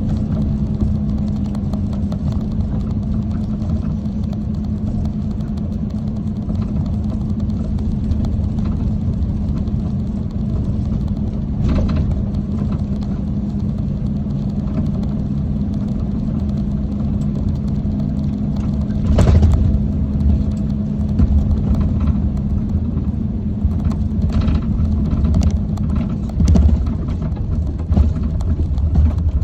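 Truck engine and road noise heard from inside the cab while driving: a steady low drone with a constant hum. A louder thump comes about 19 seconds in, with a few more bumps near the end.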